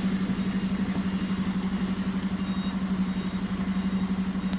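Truck's diesel engine running steadily on the road, heard from inside the cab: a steady low hum with a quick, even throb.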